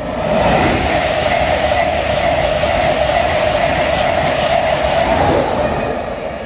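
LNER InterCity 225 electric express (Class 91 locomotive with Mark 4 coaches) running through the station at speed without stopping: a loud rushing roar of wheels on rail that swells as the train arrives, holds for about five seconds as the coaches sweep past, then fades as it goes away.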